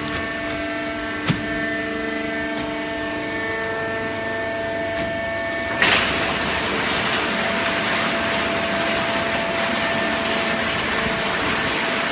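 Hydraulic horizontal baling press running: a steady hum with several whining tones and a sharp click about a second in. About six seconds in, a sudden loud burst gives way to a steadier hiss.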